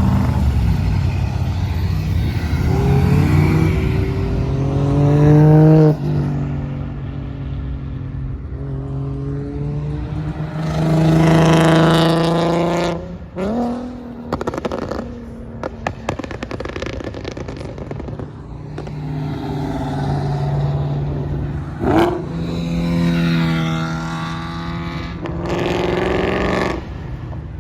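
Car engine revving hard several times, each rev climbing and then falling back toward idle. A single sharp crack comes about 22 seconds in.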